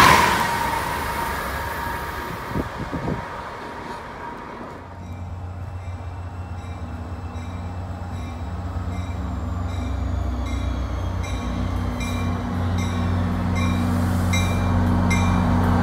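An Amtrak Acela high-speed trainset rushing past, its noise and whine fading away over the first few seconds. A Shore Line East GP40-3H diesel locomotive's engine drone then grows steadily louder as its train approaches. Over the second half there is a regular clicking of about two a second and a faint high squeal.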